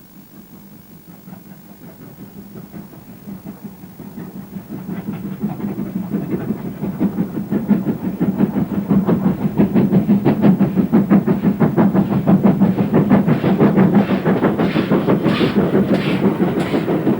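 A GWR Castle class 4-6-0 steam locomotive working a train towards the listener, its rapid exhaust beats growing steadily louder over the first ten seconds and then running close and loud. A few sharp clatters of wheels on rail come near the end.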